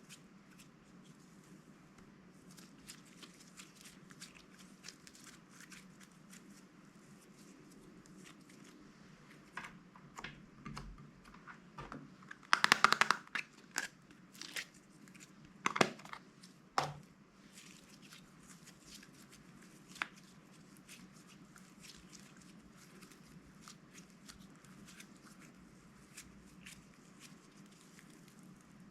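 Hands crinkling and tearing plastic packaging while making slime, with faint scattered crackles throughout and a short spell of loud crinkling about halfway through.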